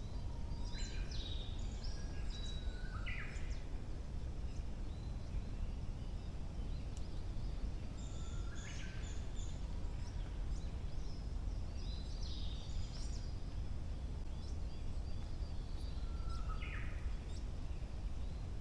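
Forest songbirds singing in early summer: a short song phrase of quick whistled notes comes four times, about every four seconds, over a steady low rumble.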